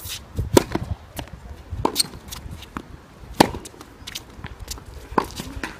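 Tennis ball struck back and forth by rackets in a rally: sharp hits about every second and a half, with lighter taps of bounces and footsteps between.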